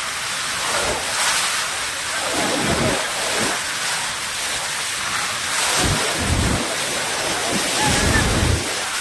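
Rushing floodwater: a steady, loud hiss of fast-moving water, with wind buffeting the microphone in gusts several times.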